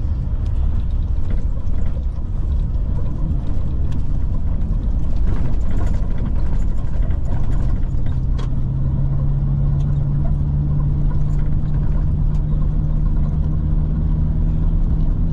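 A car's engine and road noise heard from inside the cabin while driving: a steady low rumble, with an engine drone that grows stronger and rises slightly about halfway through, and a few faint rattles and clicks.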